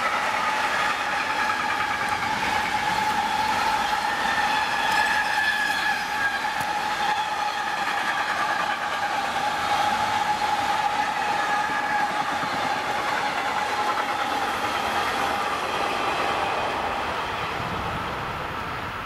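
Container freight train's wagons rolling past on the rails, a continuous rumble with a steady whining tone over it, easing off near the end.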